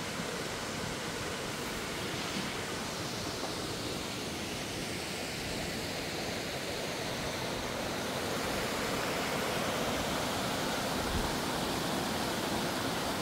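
Stream water rushing over rocks in a steady hiss, a little louder during the second half.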